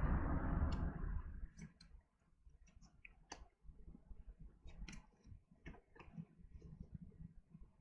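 Rustling for about the first second, then scattered light clicks and taps of tarot cards being handled and laid down on a table.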